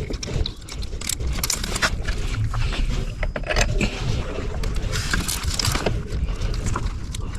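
Irregular metallic clicks, clinks and scrapes of hand tools and parts being handled during engine work, over a steady low rumble.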